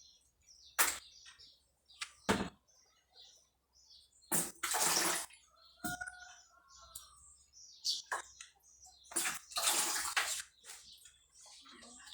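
Water splashing and sloshing in short, irregular bursts, with knocks and clatter, as the inside of a defrosted refrigerator is washed out by hand.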